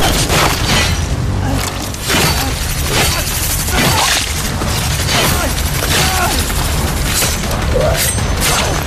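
Drama action-scene soundtrack: a series of heavy impacts and booms over a low, steady rumble, with background music.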